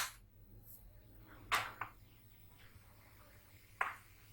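Computer keyboard keys pressed singly: four short, isolated clicks, the first right at the start, two close together about a second and a half in and one near the end, over a faint steady low hum.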